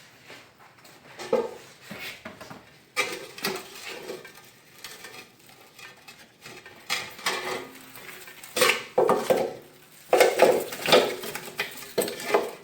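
Irregular clattering and rattling of hard objects, coming in clusters of knocks that grow busier in the second half.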